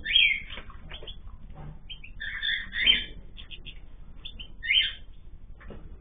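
Aviary cage birds calling: short chirps throughout, with louder calls right at the start, twice around the three-second mark and again near five seconds.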